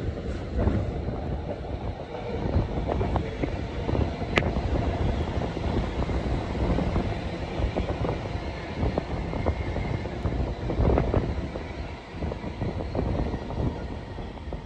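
Train ride noise heard from inside a moving carriage: a steady low rumble with irregular knocking and clicking from the steel wheels on the rails, and wind on the microphone.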